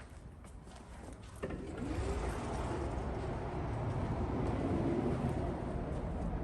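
A vehicle engine comes in suddenly, with a click about a second and a half in, and then runs loudly and steadily, its pitch wavering slightly.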